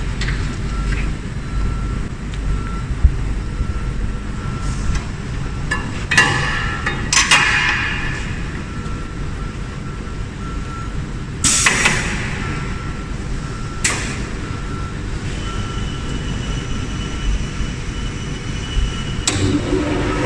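Workshop handling sounds while a double-head aluminium cutting saw is readied for a test cut: scattered knocks and clatters, several followed by a short rush of noise, over a steady low hum.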